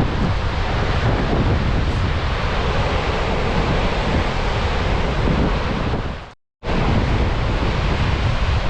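Steady rushing of Gullfoss, a large waterfall. About six seconds in the sound fades out, drops to silence for a moment, and comes back abruptly.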